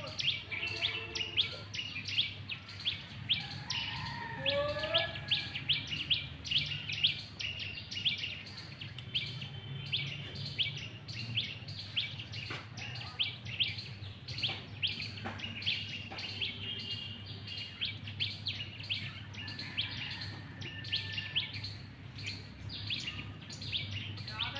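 A bird calling over and over: short, sharp, high chirps, evenly spaced at about two or three a second.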